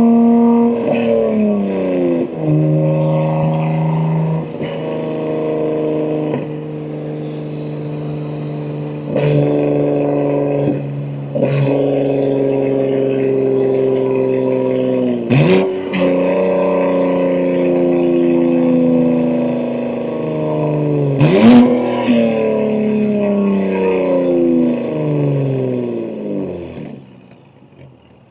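BMW M2 G87's S58 twin-turbo 3.0-litre straight-six, run through catless downpipes and an equal-length mid pipe, driven through the gears with a manual gearbox. The engine note mostly falls in pitch as the revs drop, with two sharp rev blips about 15 and 21 seconds in. It goes much quieter near the end.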